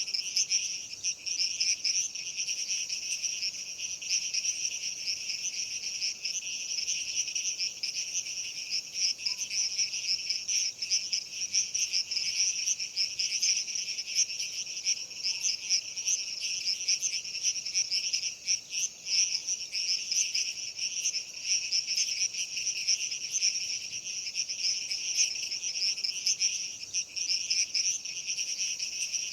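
Dense chorus of night insects, crickets, trilling steadily without a break, a shrill, rapidly pulsing buzz in two high pitches.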